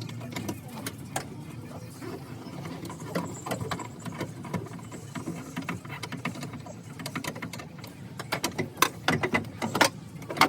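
Irregular metallic clicks and knocks of hand tools working on a van's radiator mounting, with a quick run of sharper clanks near the end.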